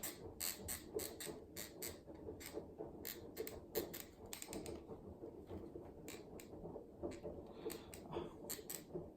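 Begode MSX electric unicycle pedal crackling with irregular sharp clicks as pressure is put on one corner. The cause is a loose corner screw under the grip tape, which lets the pedal's metal plate rub underneath.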